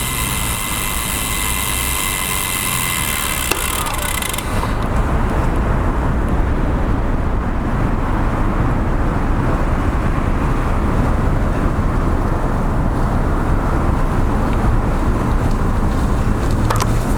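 Road noise heard from a bicycle-mounted action camera. For the first four seconds a nearby vehicle gives a steady whine of several tones, which cuts off suddenly. After that, a steady low rush of wind and traffic fills the rest.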